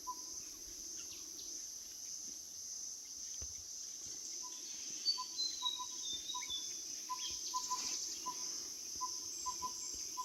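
Forest ambience: a steady high-pitched insect drone, with a bird repeating short, soft notes on one pitch and a bird's falling series of high notes a little past halfway.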